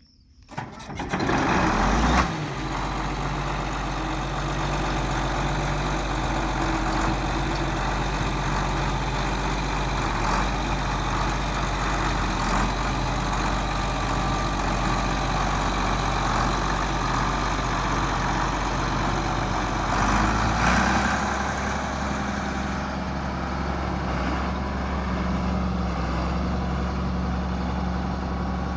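John Deere 4650 tractor's six-cylinder turbo diesel engine starting, catching about two seconds in, then idling steadily; its note shifts once about twenty seconds in.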